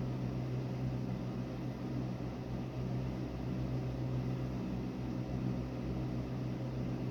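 Steady, unchanging low machine hum with a strong low drone and a faint hiss above it.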